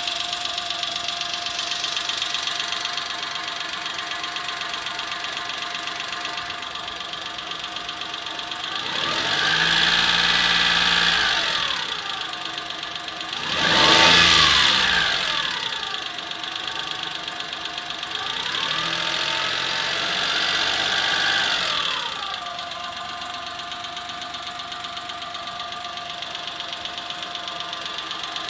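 Daewoo Matiz engine idling with a rhythmic tapping, which the owner takes for valve clatter that may need a valve adjustment. It is revved three times, a longer rev about a third of the way in, a sharp blip about halfway and another longer rev about two-thirds in, each time settling back to idle.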